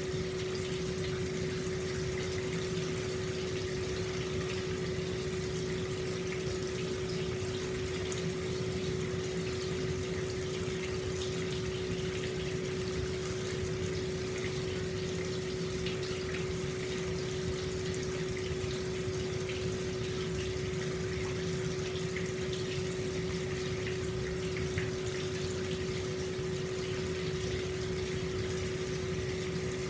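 Hot-spring water flowing steadily into an open-air bath, a constant rush of water with a steady low hum under it.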